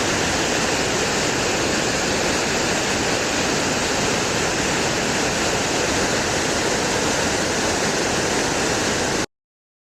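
Steady, even rushing noise that cuts off abruptly about nine seconds in.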